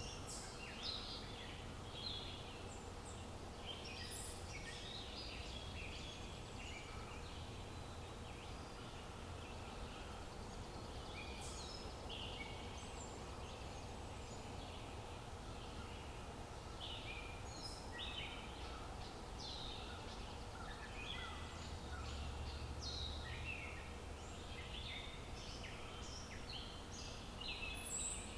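Several small birds chirping and twittering in quick, short calls throughout, over a steady low rumble of outdoor ambience.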